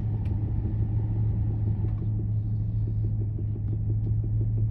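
Car engine idling, heard from inside the cabin as a steady low rumble and hum, with a faint rapid pulsing of about four beats a second joining in after about two seconds.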